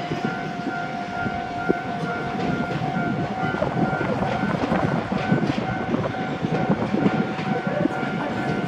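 Orange Iyotetsu suburban electric train rolling in over the tracks, its wheels clattering and knocking on rail joints, while a level crossing alarm rings steadily at about two dings a second.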